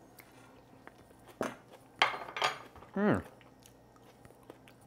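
A person tasting a crunchy raw apple salsa: a few crisp chewing crunches, then a short 'mm' of approval that falls in pitch about three seconds in.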